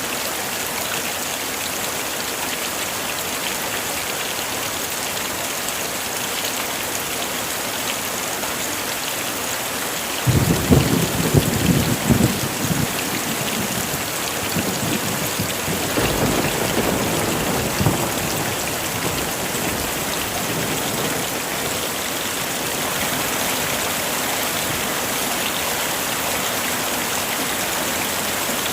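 Heavy rain falling steadily, with a crack and rumble of thunder about ten seconds in and a second, weaker roll of thunder a few seconds later.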